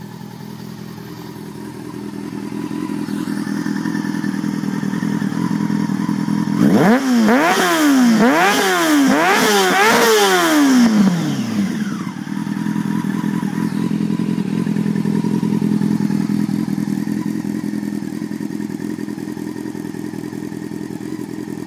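Yamaha R6 inline-four engine idling through a custom under-tail link pipe and cut-down Viper silencer, with a run of about six quick throttle blips in the middle before it drops back to a steady idle.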